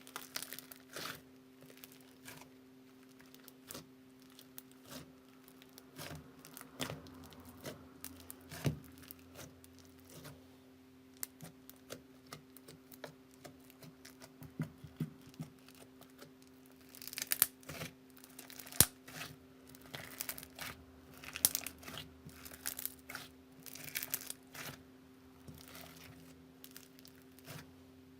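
Slime being squeezed and stretched by hand, giving irregular crackles and sharp little pops, thicker and louder in the second half, over a faint steady hum.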